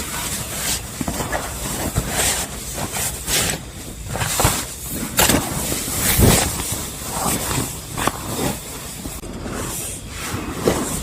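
Heavy rain falling on a tent, a steady hiss broken by irregular louder hits from large drops.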